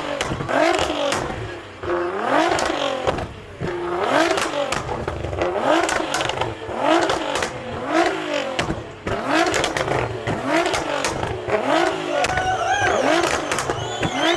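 Car engine revved in quick repeated throttle blips, a little more than one a second, each rising and falling in pitch.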